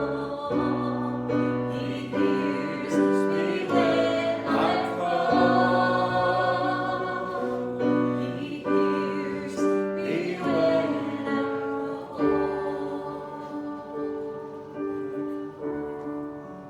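Church congregation singing a hymn with instrumental accompaniment, with held chords and wavering sung lines. The music gradually gets quieter toward the end.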